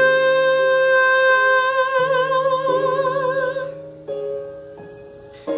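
A woman sings one long held note with vibrato over piano chords. The note ends a little over three and a half seconds in, and the piano plays on, striking new chords near the end.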